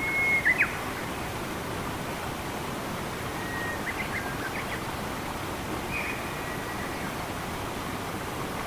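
Steady rush of flowing water with a few short whistled bird calls over it: the loudest right at the start, a held whistle ending in quick sharp notes, then fainter calls about four and six seconds in.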